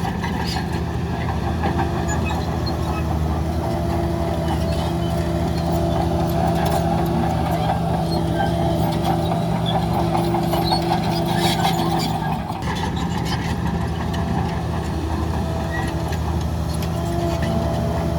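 Heavy diesel engine of earth-moving machinery running steadily, with a few metallic clanks and a short drop in the sound a little past the middle.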